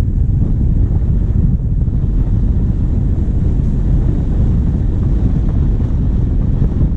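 Steady low rumble of a diesel vehicle on the move, heard from a bonnet-mounted microphone: wind buffeting the microphone over the engine's running.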